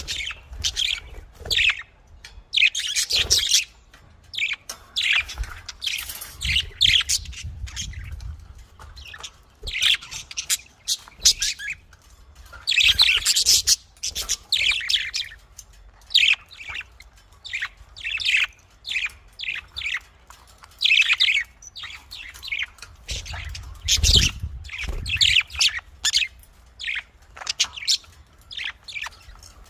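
Budgerigars chirping and chattering in a continuous stream of short, high, irregular calls.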